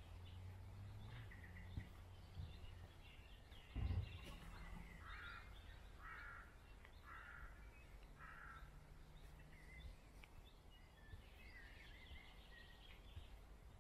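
A crow cawing four times, about a second apart, faint against a low steady rumble, with a single dull thump just before the caws and small birds chirping near the end.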